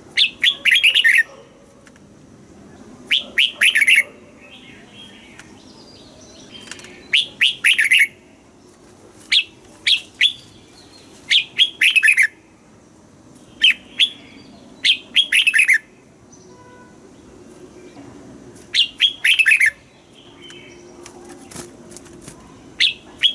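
Red-whiskered bulbul singing short, bright phrases of a few quick descending notes, repeated about every two to three seconds.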